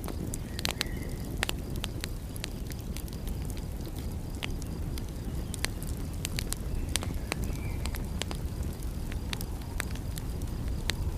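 Wood fire in a fireplace crackling, with irregular sharp pops over a steady low rumble, and two faint brief whistles, one near the start and one past the middle.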